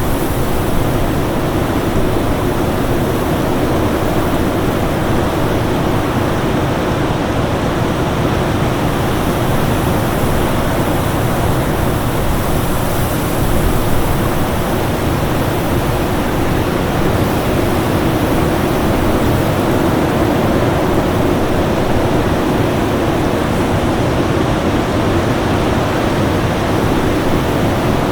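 Winter storm ambience: a steady, dense rush of wind noise, heaviest in the low range, with no distinct gusts rising or falling.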